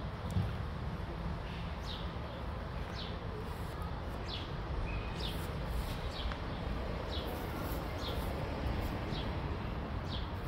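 A bird repeating a short, high, falling chirp about once a second, over a steady low background rumble.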